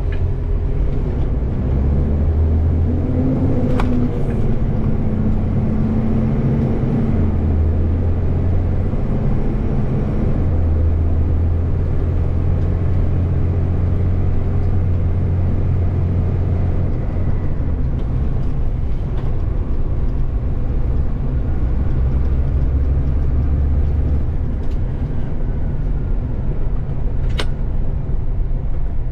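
Heavy wind buffeting on a microphone strapped to the front of a moving ACCO truck, over the truck's steady engine and road rumble. Two brief clicks, one a few seconds in and one near the end.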